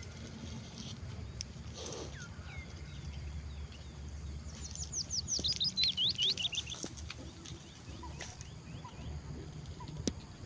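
Small birds chirping, with a quick run of rapid downward-sweeping chirps about halfway through, over a steady low rumble of outdoor background noise.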